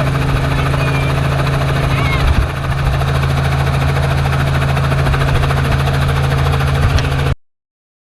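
Helicopter running close by: a steady low engine drone with a fast, even rotor chop, cutting off suddenly about seven seconds in.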